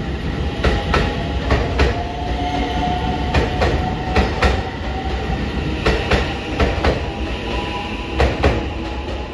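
Electric multiple-unit train rolling past along the platform, its wheels clicking over the rail joints in pairs about every second over a steady running rumble.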